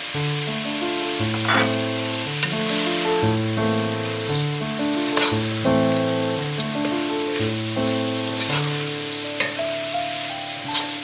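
Food sizzling as it fries in a pan, with a few sharp knocks of a utensil against the pan. Instrumental background music plays a melody of steady notes over it.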